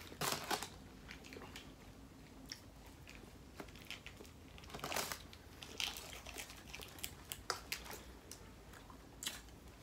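Quiet chewing and biting into fast food, a slider sandwich and fries, with scattered small crunches and mouth clicks.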